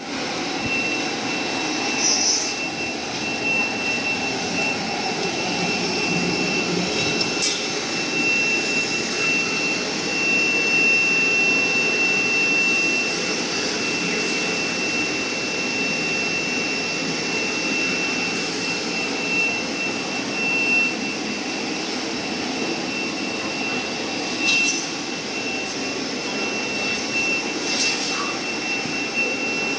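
Industrial heavy-duty vacuum cleaner running steadily, a rushing roar of air with a constant high-pitched motor whine. A few short sharp clicks or knocks cut through it, about a third of the way in and twice near the end.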